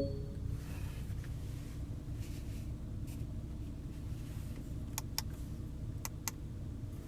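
Steady low hum of the Porsche Cayenne S's twin-turbo V6 idling, heard inside the cabin. A little over halfway through, centre-console switches click twice in quick pairs, pressed and released.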